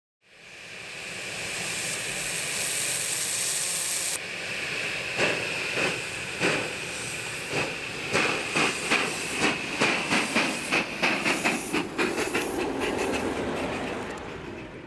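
Miniature railway train: a steady hiss of steam, then a run of sharp rhythmic beats that come faster and faster.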